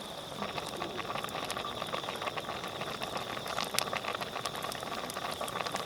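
Bonfire crackling with irregular sharp pops, over a steady high insect trill.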